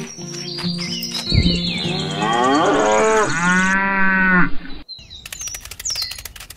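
Cows mooing, several long calls overlapping one after another, breaking off about five seconds in. After that come a few sharp clicks and faint high chirps.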